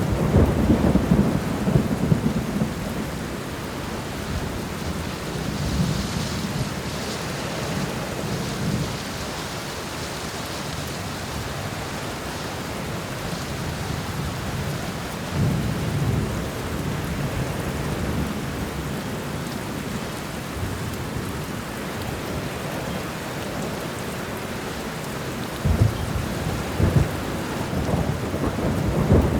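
Steady rain falling during a thunderstorm, with thunder rumbling low several times: at the start, a few seconds later, past the middle, and a sharper, louder clap of rumbling near the end.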